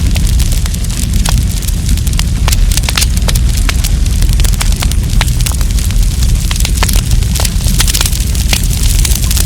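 Wood campfire crackling: many sharp, irregular pops and snaps over a steady low rumble of the burning fire.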